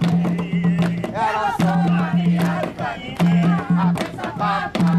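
Jongo: group singing of a ponto over hand drums, with sharp drum strikes and a low drum tone sounding in a steady repeating rhythm.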